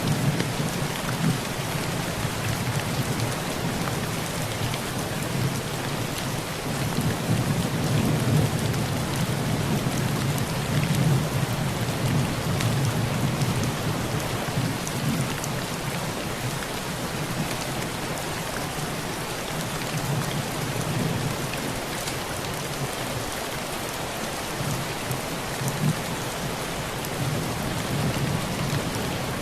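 Heavy rain drumming steadily on a tin roof, with low rolling thunder that swells through the middle and fades back.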